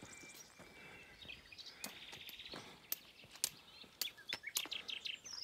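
Small birds chirping and trilling, with a few sharp clicks in the second half.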